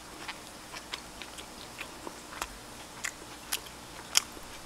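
Close-miked chewing with short, irregularly spaced mouth clicks and smacks as a person eats wood-fired barbecued duck.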